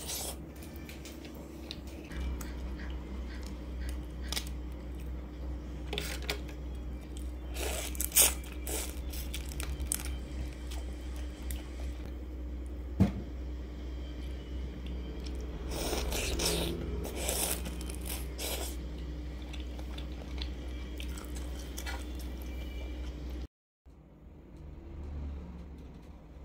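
Close-miked eating sounds: biting and chewing grilled Vietnamese pork sausage (nem nướng) and giant freshwater prawn, with irregular crunches, clicks and wet squishes over a steady low hum. The sound drops out for a moment near the end.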